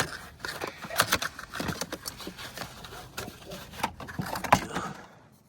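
Irregular clicks, taps and rustling of hands handling a car's oil filter and parts during an oil change, with one sharper knock near the end.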